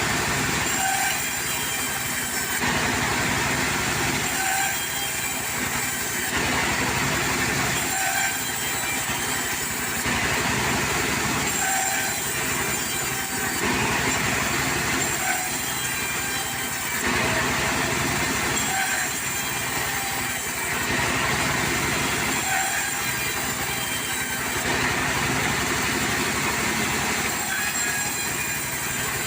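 Portable sawmill running: a steady mechanical noise that swells and eases in a regular cycle about every two seconds.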